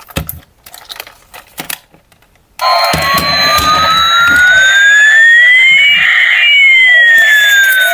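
A few sharp plastic clicks, then about two and a half seconds in a toy vehicle's electronic siren sound effect switches on suddenly and plays loudly from a small speaker. It has two tones sliding in pitch, one rising while the other falls.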